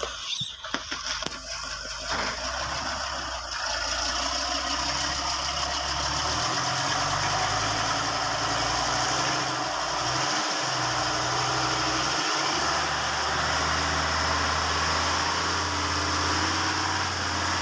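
Heavy truck engine running steadily, its pitch shifting a few times, with a few knocks in the first two seconds.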